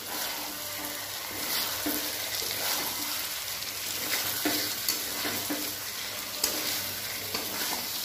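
Fried potatoes and spiced tomato masala sizzling in a metal kadai while a metal spatula stirs them. The spatula scrapes and taps against the pan every second or so.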